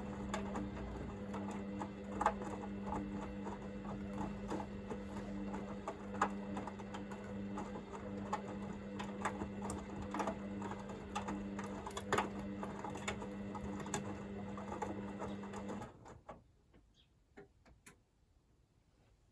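Hoover VisionDynamic washing machine drum turning during the wash-and-heat stage of a Rapid 30' cycle: a steady motor hum with scattered clicks and taps from the tumbling laundry. The motor stops about 16 seconds in, leaving only faint ticks.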